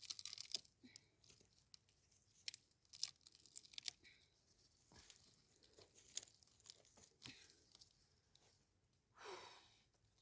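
Faint, scattered crackles and clicks at near-silent level, with a short breathy rustle about nine seconds in.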